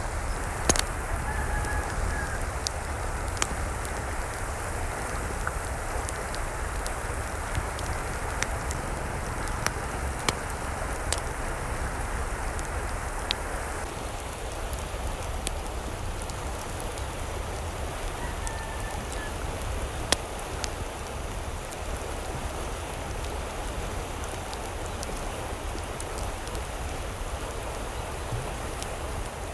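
Steady patter of falling water with scattered sharp drip-like clicks. Two brief faint calls come through, about two seconds in and again near the middle.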